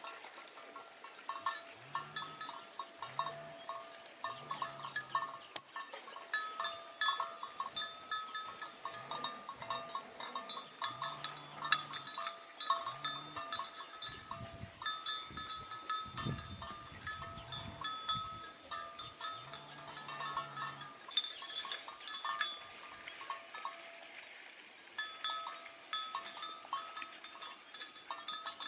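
Bell on grazing livestock, likely a water buffalo, clanking irregularly with many quick clicks and knocks, over a steady high ringing tone.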